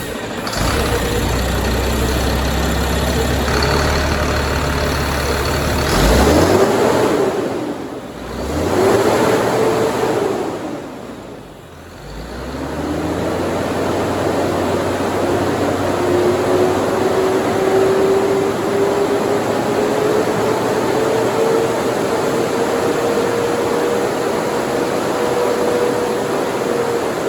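Caterpillar C7 inline-six diesel engine running: it idles steadily, is revved up twice, then is brought up to a steady higher speed that it holds.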